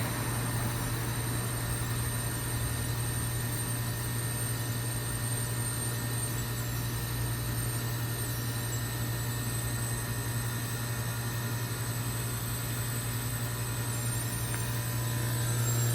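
2005 York Olympian (Latitude) heat pump running in its defrost cycle: a steady low compressor hum.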